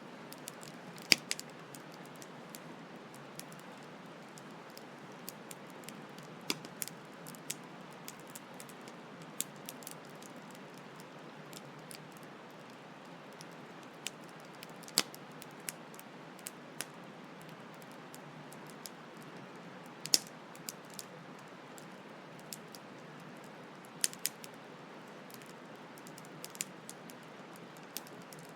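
Wood campfire crackling: irregular sharp pops and snaps, a few of them louder, over a steady rush of flowing stream water.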